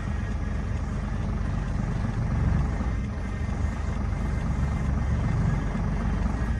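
Heavy truck's diesel engine running under load, swelling twice as the truck is rocked back and forth to break its wheels free from where they sat overnight.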